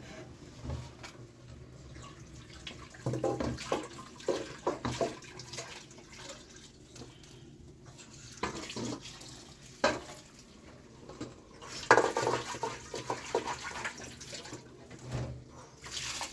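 Water being splashed and poured by hand in a basin, in irregular bursts with a few light knocks, as in washing by hand.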